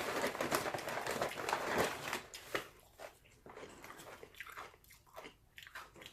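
Close-up chewing and crunching of crunchy food, loudest and densest in the first two seconds or so, then softer, scattered crunches.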